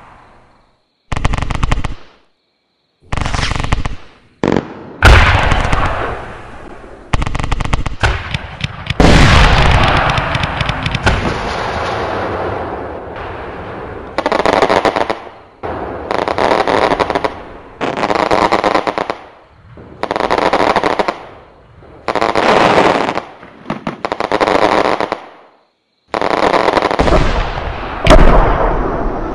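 Home-built electronic fireworks unit playing recorded firecracker crackle through a loudspeaker. First come uneven bursts of rapid popping with short gaps, including one long run of several seconds. About halfway through it settles into a regular pattern of short bursts about every two seconds.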